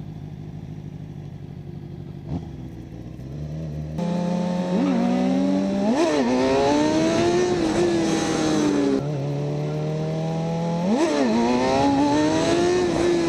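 Sport bike's inline-four engine running low and steady, then opening up about four seconds in and accelerating hard, its pitch climbing and breaking at several gear changes. Wind noise rushes over the microphone as speed builds.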